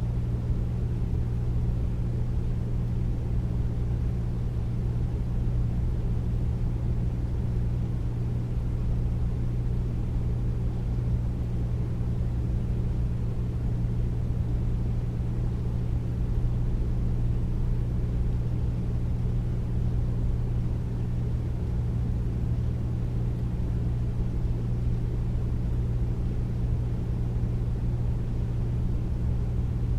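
Air conditioner running steadily: a deep, even hum with a rush of air, with no change in speed or pitch.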